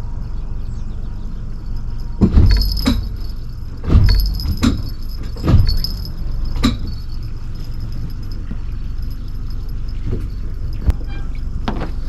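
Bowrider boat under way: a steady low motor drone, broken by a run of loud thuds and metallic rattles about two to seven seconds in, and two more thuds near the end.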